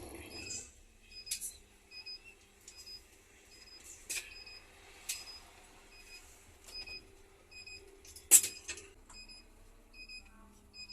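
Electronic warning beeper inside a Scania coach, repeating short high beeps about twice a second, with a steady low hum under it. Several sharp knocks and clicks come through, the loudest a bit over eight seconds in.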